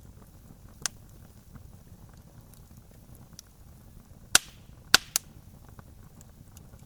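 Wood campfire crackling over a low steady burn, with a sharp pop about a second in and three loud snaps in quick succession a little past the middle.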